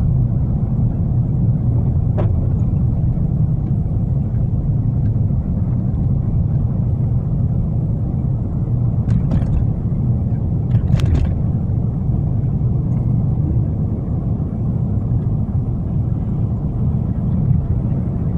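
Steady low rumble of a car's engine and tyres heard from inside the cabin while driving on a snow-covered road, with a few short clicks at about two seconds, nine seconds and eleven seconds.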